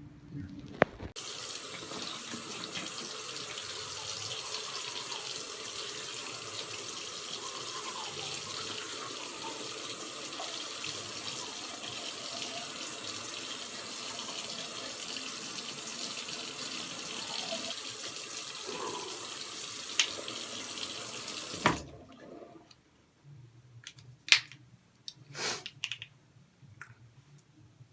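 Water running steadily for about twenty seconds, then cutting off suddenly, followed by a few faint clicks and knocks.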